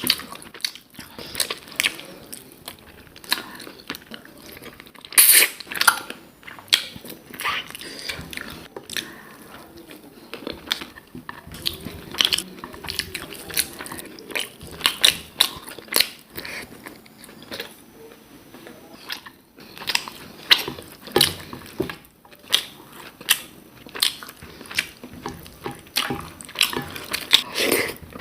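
Close-up sounds of a person eating a Bengali rice-and-curry thali: chewing and biting, with many sharp, irregular mouth clicks and smacks.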